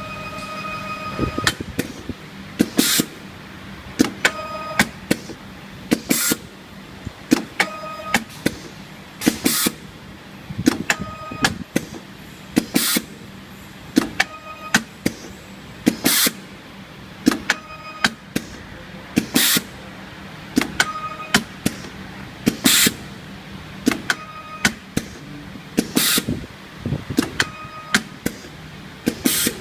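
Automatic ribbon-wire PCB soldering machine running through its cycle. A pattern of clicks, a brief steady tone and a short hiss repeats about every three seconds.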